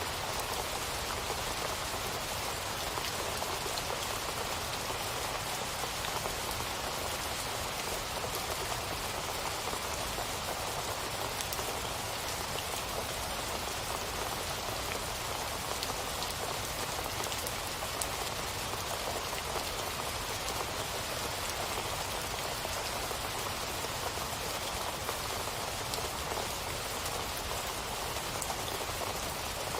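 Steady rain falling and pattering on a surface, an even hiss with scattered drop ticks and no change in intensity.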